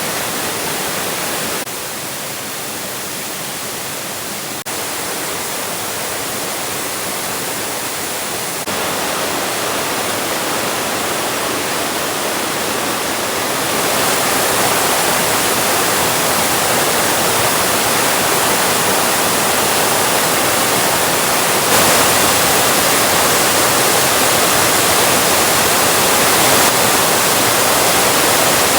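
Waterfall rushing: a loud, steady roar of falling water whose level jumps up or down abruptly several times, growing louder toward the end.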